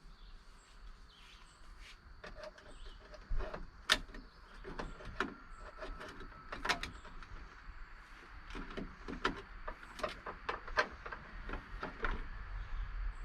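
Irregular clicks, taps and knocks of hands working on a pickup truck's door and mirror parts, with one sharper knock about four seconds in.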